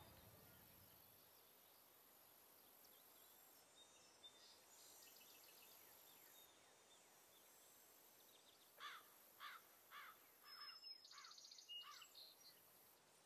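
Faint island ambience: a steady high-pitched insect drone, and from about two-thirds of the way in a bird giving a quick series of short calls, each falling in pitch.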